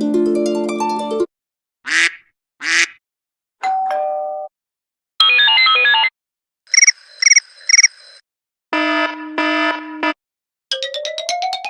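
A run of short iPhone ringtone and alert sounds played one after another, each a second or less with brief gaps between them: a chord, two quick croak-like blips, a short two-note tone, a rapid pattern of notes, three repeated chimes, a held chord, and near the end a quickly rising run of notes.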